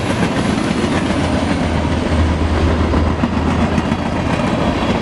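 Freight train headed by a BNSF SD70MAC diesel-electric locomotive rolling past at close range: a steady rumble and rush of wheels on the rails, with a low steady hum underneath.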